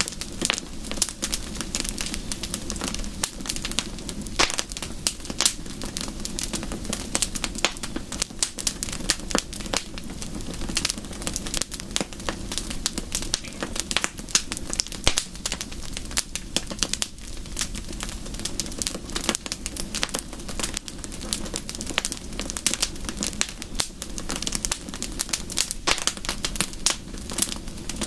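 Wood fire crackling steadily, with a dense, irregular stream of sharp pops and snaps over a low, even rumble.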